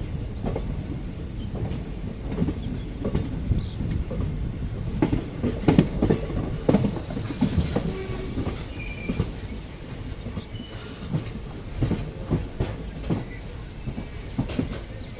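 Passenger train pulling out of the station at low speed, heard from inside a sleeper coach. A low rumble runs under irregular clacks of the wheels over rail joints and points, with brief faint wheel squeals midway.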